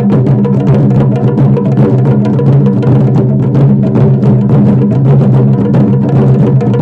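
Japanese festival taiko drumming: a fast, steady run of drum strikes over a sustained low droning tone.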